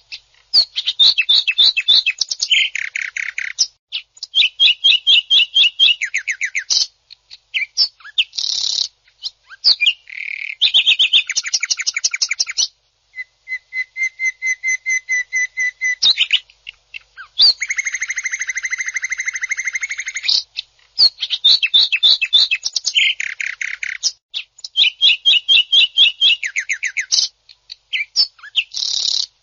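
Green leafbird (cucak ijo) singing harsh, rapid machine-gun strings of repeated notes and buzzy trills in bursts of one to three seconds, separated by short pauses: the aggressive, fast-fire song ('tembakan kasar') used to provoke and train other leafbirds.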